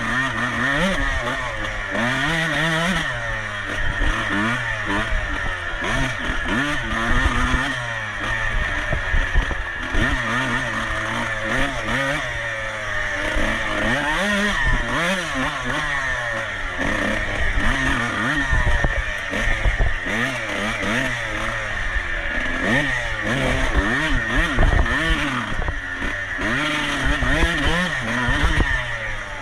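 Off-road motorcycle engine revving hard and falling back over and over, its pitch climbing and dropping every second or two as the throttle is worked and gears change.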